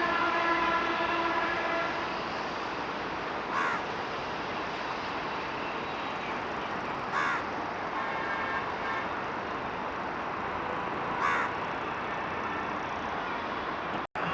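Steady rushing noise with a horn held for about two seconds at the start, and a crow cawing three times, a few seconds apart.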